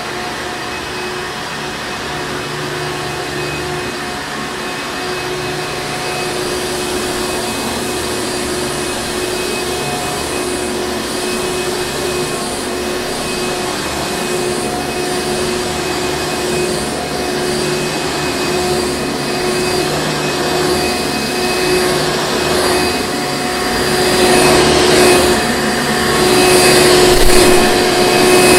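Hoover Encore Supreme upright vacuum cleaner running steadily: a rush of air with a steady motor whine. It grows louder and surges unevenly over the last few seconds.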